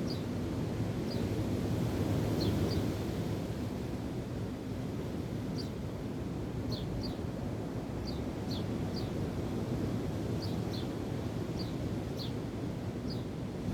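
Wind and waves as a steady low rushing, with a small bird giving short high chirps that drop in pitch, often in quick pairs, about once a second.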